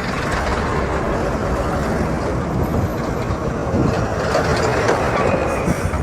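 Steady road vehicle noise, engine and tyres on the road surface, growing a little louder about four seconds in.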